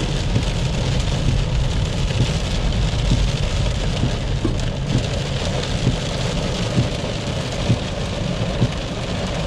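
Heavy rain drumming on a car's roof and windscreen, heard from inside the cabin as a dense steady hiss with many small raindrop ticks, over the car's low rumble.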